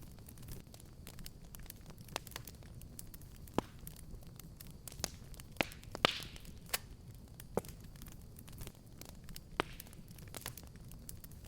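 Fireplace fire crackling, with scattered sharp pops over a low steady rumble. The loudest pop comes about six seconds in, followed by a short hiss.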